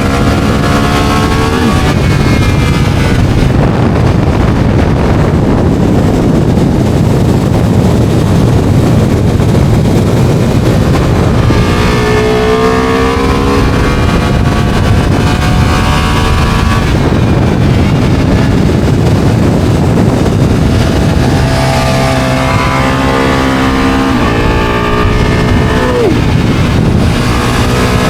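Ducati motorcycle engine at speed, its pitch climbing and dropping as it revs through the gears, under heavy wind rush on the microphone.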